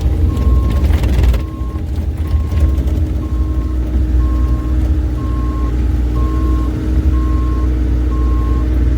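Bobcat E35 mini excavator's travel alarm beeping about once a second as the machine tracks, over the steady running of its diesel engine. There is some clatter in the first second or so.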